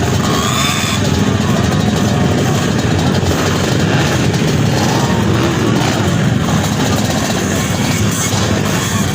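Dirt bike engines running and revving, a dense, steady mix of motorcycle engine noise.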